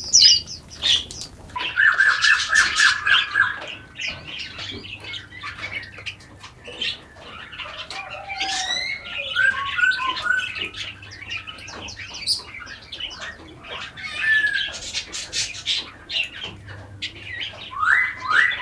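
A chorus of forest birds singing and calling, with overlapping chirps, trills and rising whistles. A fast run of repeated notes comes about two seconds in, and another near the end.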